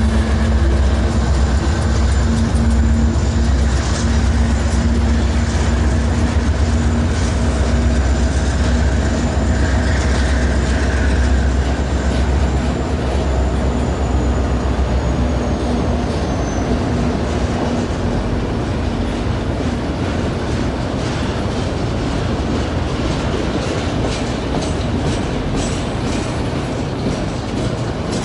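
Freight train passing, its diesel locomotives (including a Union Pacific EMD SD70M) giving a strong low engine rumble that fades about halfway through. Then autorack cars roll by with clickety-clack wheel clicks over the rails, and a thin high wheel squeal dies away around the middle.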